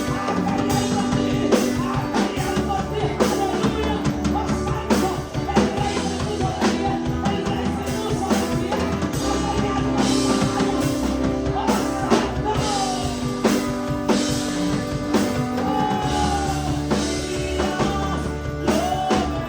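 A band plays an upbeat Spanish-language worship chorus, with a drum kit keeping a steady beat under sustained bass and keyboard tones, and some singing over it.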